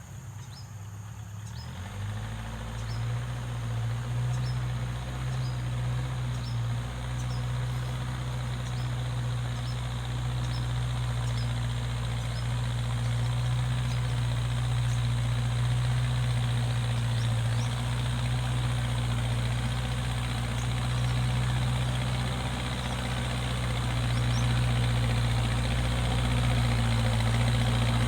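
A backhoe loader's diesel engine comes on about two seconds in and runs steadily at a low, even pitch, slowly getting louder.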